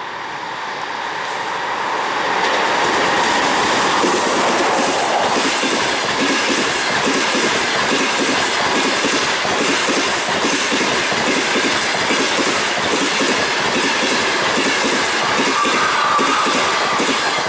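A passenger train passing at speed behind an EP20 electric locomotive: a steady rush of wheels on rail with a rhythmic clickety-clack over the rail joints. It builds over the first couple of seconds as the locomotive goes by and fades near the end as the last coach passes.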